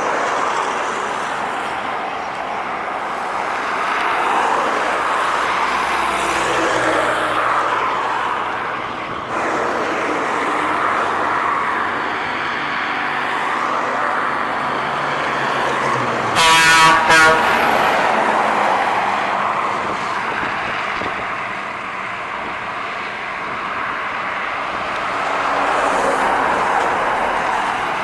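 Trucks passing on a highway, their tyre and engine noise swelling and fading as each goes by. About sixteen seconds in, a loud truck horn sounds a short double blast.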